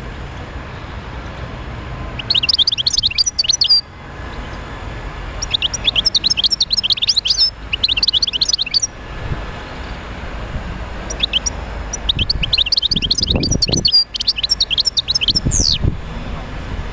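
European goldfinch singing in several bursts of rapid, twittering high notes with short gaps between them, over a low background rumble.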